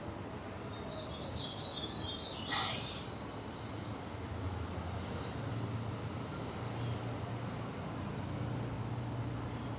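Outdoor background noise with a steady low hum, a short run of high chirps about a second in, and one sharp click about two and a half seconds in.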